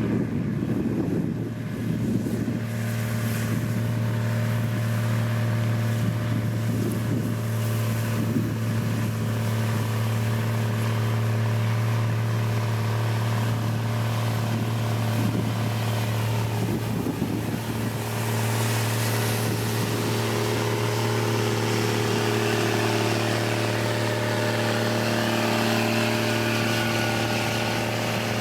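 Diesel engine of a heavy road-building machine, such as a motor grader or road roller, running steadily at an even speed.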